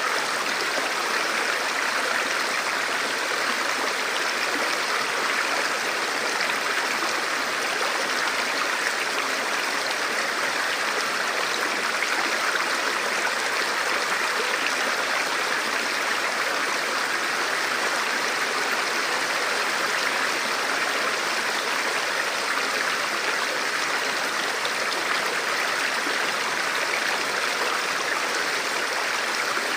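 Steady rush and gurgle of a shallow forest stream flowing over rocks, even and unbroken.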